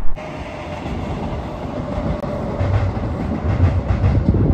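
Diesel passenger train running across a rail bridge: a steady engine rumble with a held whine, and low rhythmic thumps of the wheels from about halfway through.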